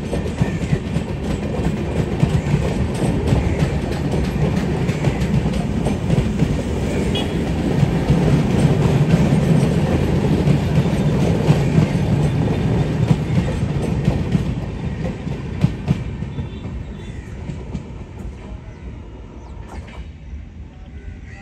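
Passenger express coaches rolling past, wheels clattering over the rail joints with a steady rumble; the sound dies away after about sixteen seconds as the train moves off.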